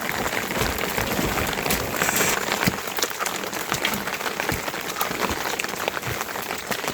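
Rain falling steadily, a dense even hiss made of many small drop hits.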